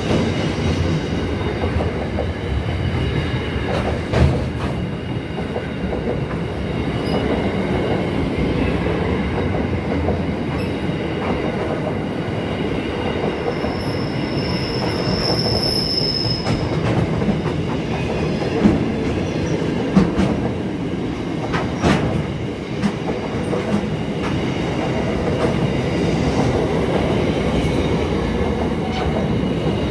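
Freight train wagons, container flats and then empty flat wagons, rolling past close by: a steady rumble of wheels on rail with clicks and clunks over the rail joints. A brief high wheel squeal rings out about halfway through.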